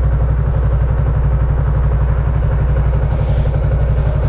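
Yamaha MT-03's 321 cc parallel-twin engine idling steadily while the motorcycle stands still.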